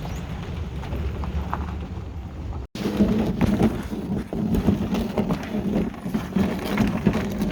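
Steady low rumble for the first few seconds, then after a sudden cut, a busy run of irregular knocks and rattles, typical of a paddle and gear knocking against a canoe's hull.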